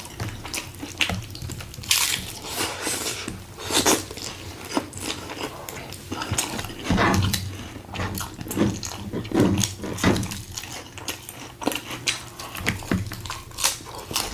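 Close-miked biting and chewing of a crunchy taco, with irregular crisp crunches of the shell breaking.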